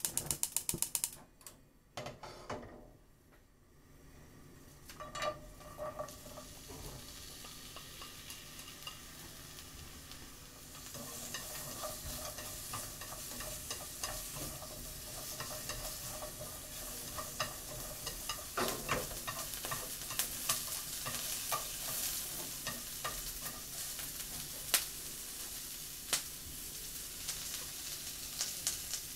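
Sliced onions sizzling in hot oil in a frying pan, the hiss starting about a third of the way in and holding steady, with chopsticks tapping and scraping the pan as they are stirred. At the very start, about a second of rapid clicking as the gas burner is lit.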